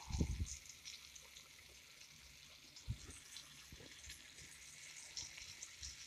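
Flour-dredged pork chop frying in a skillet of hot oil: a steady fine crackle with scattered spatter pops. A dull thump right at the start, the loudest sound, and a smaller one about three seconds in.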